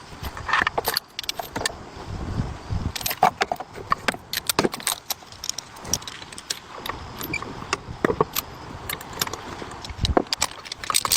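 Irregular metallic clinking and clattering of hand tools and small metal parts being handled, with many sharp clicks, some briefly ringing.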